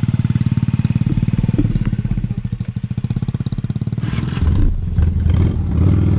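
Honda Steed V-twin motorcycle engine idling with an even, pulsing beat. About four seconds in, the sound turns louder and steadier with a deeper tone.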